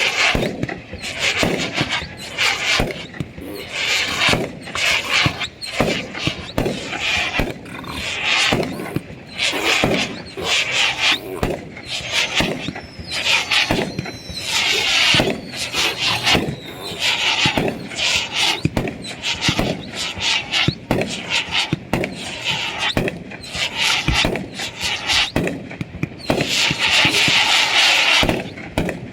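Fireworks going off without a break: a dense string of bangs and crackles, with whistling fireworks gliding down in pitch around the middle. The loudest stretch is a long hiss near the end.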